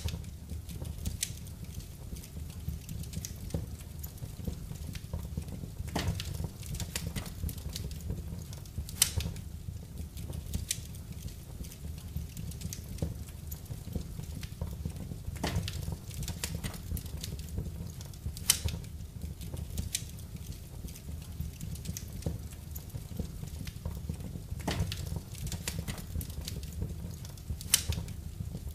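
Wood fire burning in a fireplace: a steady low rumble of flame with irregular crackles and sharp pops, a few of them louder than the rest.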